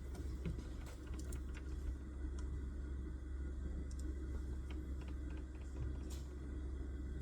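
Scattered light key clicks, a few in quick runs about a second in and again from about four to six seconds in, over a steady low hum.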